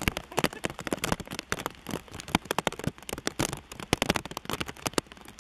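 Heavy rain falling, heard as a dense, irregular crackle of sharp raindrop taps of varying loudness.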